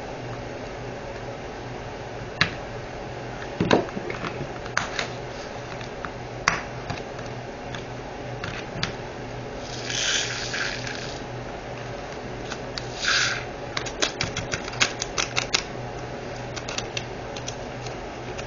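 Small hard plastic items being handled: scattered sharp clicks and taps, a dense run of quick clicks near the end, and two brief rustles in the middle, as diamond-painting drills and their containers and bags are sorted.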